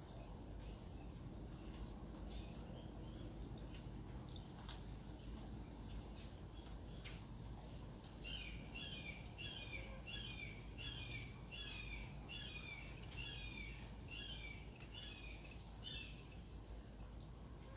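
A bird singing over faint steady outdoor background noise: about eight seconds in, a run of about ten repeated chirping notes, roughly one a second.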